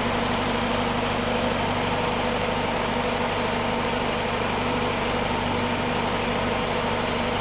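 Willys CJ3A's four-cylinder L-head (flathead) engine idling steadily and evenly, with no missing or sputtering, while still warming up after a cold start.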